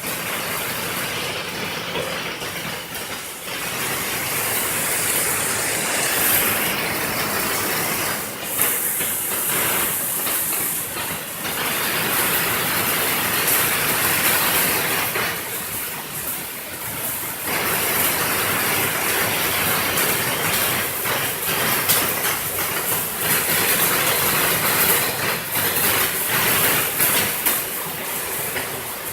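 Heavy rain pouring down, a dense steady hiss that swells and eases every few seconds.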